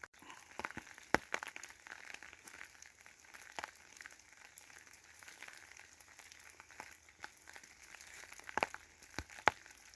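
Faint scattered crackles and clicks over a low hiss, with a few sharper clicks about a second in and near the end.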